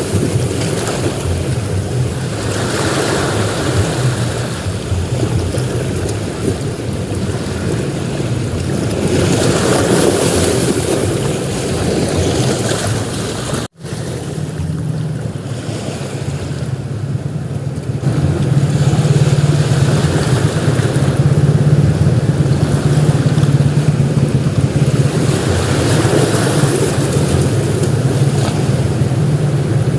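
Sea surf breaking and washing up a beach, swelling and easing every few seconds, over a steady low rumble. The sound cuts out for an instant about halfway through and comes back slightly louder.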